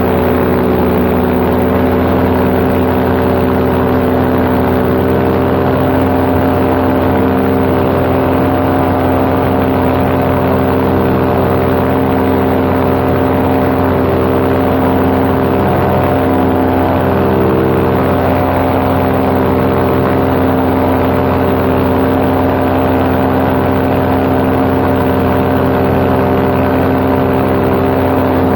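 Paramotor engine and propeller running steadily at a constant throttle in flight, one even drone with no change in pitch.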